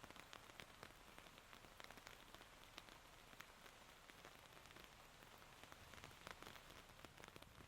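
Quiet, steady summer rain falling: a soft even hiss with many separate drop ticks scattered through it.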